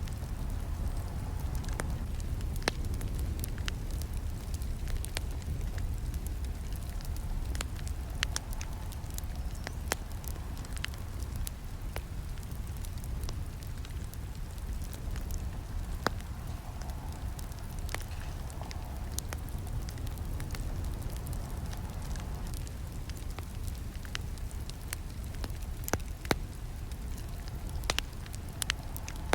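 Wood campfire burning, with a steady low rumble of flames and frequent sharp crackles and snaps from the burning wood scattered throughout.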